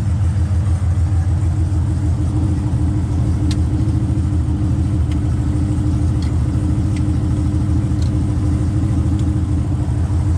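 Sandrail's LS1 V8 engine idling steadily, with a few faint clicks from the dash light switches.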